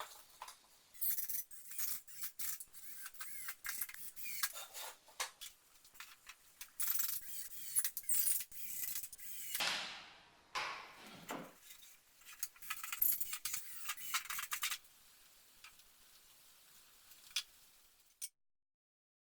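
Rapid metallic clinking, rattling and scraping of tools and parts being handled during workshop construction, with two falling scrape-like sweeps about ten seconds in. It cuts off abruptly to silence near the end.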